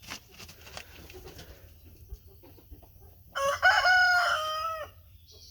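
A young rooster crows once, a single crow of about a second and a half starting about three seconds in; faint clicks and scratching from the flock come before it.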